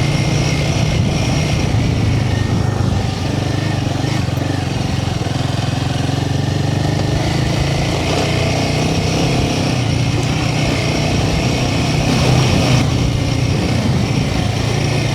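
Royal Enfield Himalayan 450's single-cylinder engine running steadily as the motorcycle is ridden.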